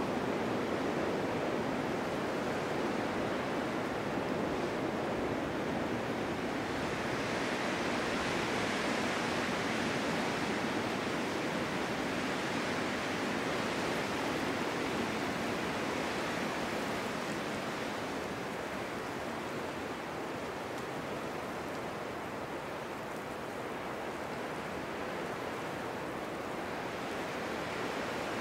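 Steady wind noise of a snowstorm, a constant rushing hiss with no distinct events; the higher part swells for a while in the middle and eases off again.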